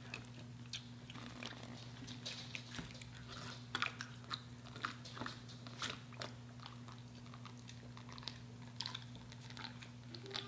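Close-miked biting and chewing of crispy Popeyes spicy fried chicken. The breading gives off irregular crisp crunches and crackles, some sharper than others.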